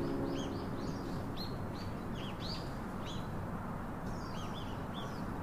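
Small birds chirping: quick runs of short, high chirps with a brief pause partway through, over a steady background hiss.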